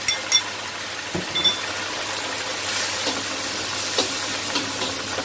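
Greens and egg sizzling as they are stir-fried in a wok. A few sharp ringing clinks come in the first second and a half as the egg bowl is tapped empty over the pan, then the spatula stirs through the food.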